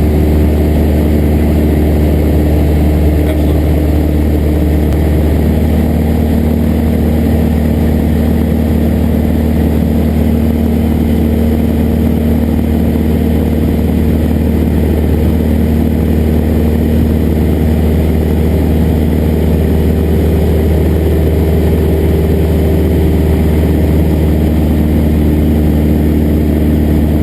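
Cessna 172's piston engine and propeller running steadily, a loud continuous drone whose tones shift slightly in pitch a few times.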